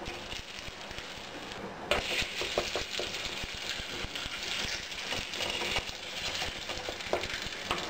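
Paratha sizzling as it shallow-fries in ghee on a hot tawa. About two seconds in it is turned over with a wooden spatula and the sizzle gets suddenly louder, with a few light taps of the spatula against the pan.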